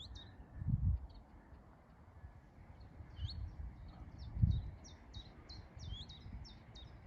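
A small warbler singing a run of short, high, repeated notes, about three a second, for about four seconds. Two low thumps of wind or handling on the microphone come near the start and in the middle.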